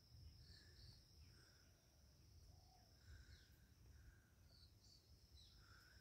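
Near silence: faint outdoor ambience with scattered short bird calls and a faint steady high-pitched tone.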